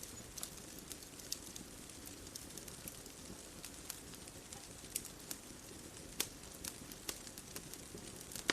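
Bonfire crackling: irregular sharp pops and snaps, a few louder than the rest, over a steady soft hiss.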